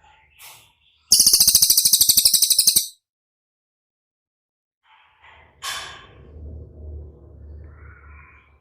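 Songbird song from a masteran training recording: a very loud, rapid, high-pitched rattling trill about a second in, lasting under two seconds, then after a pause quieter chirps and short notes.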